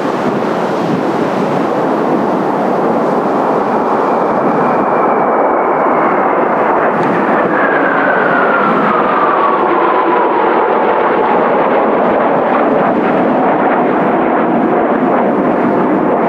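Kawasaki T-4 jets flying past, their turbofan whine sliding steadily down in pitch as they go by, under loud, steady wind buffeting on the microphone.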